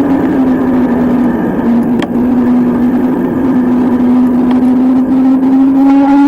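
Motorcycle engine running steadily while riding. Its note eases down over the first couple of seconds and then slowly climbs again.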